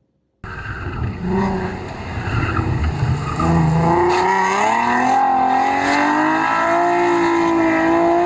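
Nissan 370Z's 3.7-litre V6 engine revving. It starts abruptly about half a second in, climbs in pitch through the middle and holds at high revs near the end.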